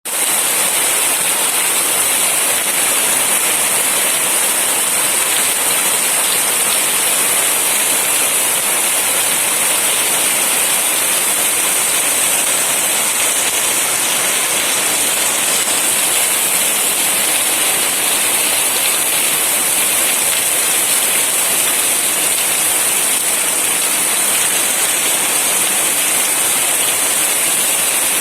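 Heavy monsoon rain falling steadily, an even hiss of many drops on surfaces with no let-up.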